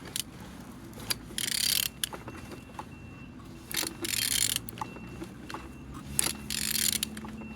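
A Hyundai G4EE four-cylinder engine turned over by hand with a ratchet wrench on the crankshaft. There are three strokes about two and a half seconds apart, each a half-second grinding rasp, with ratchet clicks in between. The engine turns freely, a sign that it is not seized.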